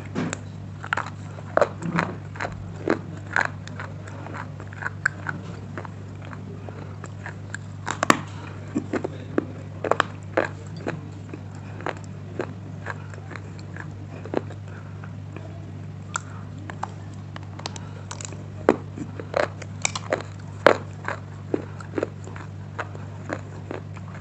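A person biting and crunching hard pieces of slate stone, with irregular sharp cracks one to a few times a second, over a steady low hum.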